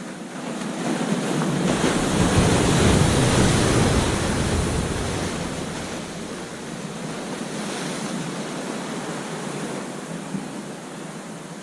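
Ocean waves breaking on a beach: one wave crashes and swells to a peak a couple of seconds in, then its wash slowly fades into a steady lower rush of surf.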